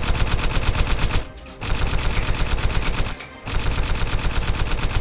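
Rapid automatic gunfire in three long bursts, separated by short pauses about a second and a half and three seconds in.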